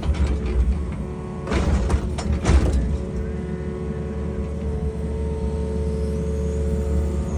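Excavator's diesel engine running steadily with a constant hydraulic whine. A short burst of clattering knocks comes between about one and a half and three seconds in.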